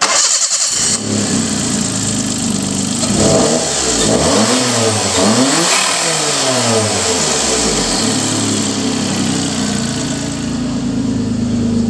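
Suzuki K6A 660 cc turbocharged three-cylinder engine (HT07 turbo) running. It is revved several times in quick rises and falls from about three seconds in, then settles back to a steady idle.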